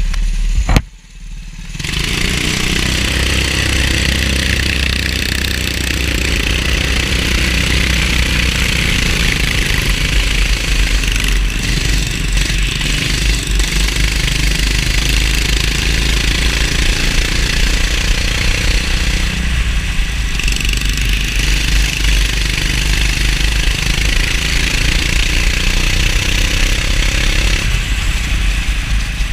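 Go-kart engine running continuously, with a sharp knock and a brief dip in level about a second in.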